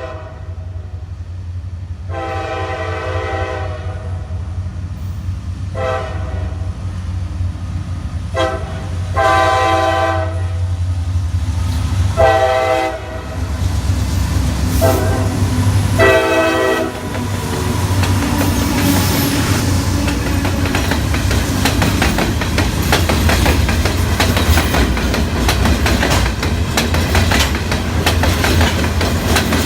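Diesel locomotive approaching with a low engine rumble and sounding its multi-note air horn: two long blasts, a short one and a long one, the grade-crossing signal, followed by a few more blasts. After that the train passes, with steady rushing and the rapid clickety-clack of wheels over rail joints.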